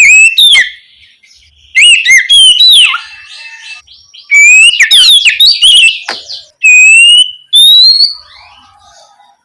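Oriental magpie-robin (kacer) singing loud, clear whistled 'ngeplong' phrases. The song comes in five bursts of rising and falling notes with short pauses between them.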